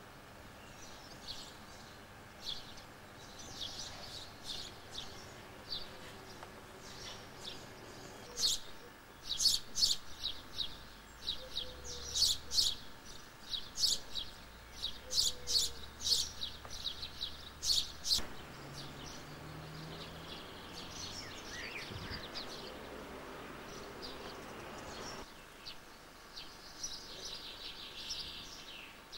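Small songbirds chirping: a long run of sharp, high chirps, then softer, more continuous twittering song from a little past the middle.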